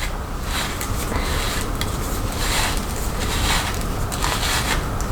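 Hairbrush strokes through freshly set curls, a soft swish roughly once a second, over a steady low rumble.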